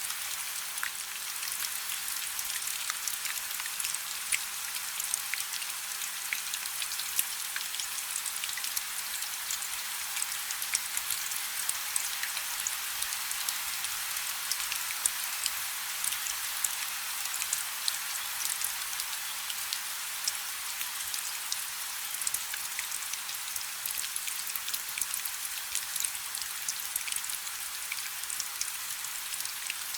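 Steady rain falling on a river: an even hiss of rain on the water, with many small sharp drop impacts scattered through it.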